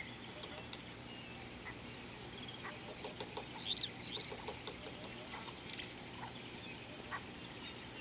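Wild birds calling, a scatter of short chirps and calls with a quick run of them about three to four seconds in, over faint steady outdoor background noise.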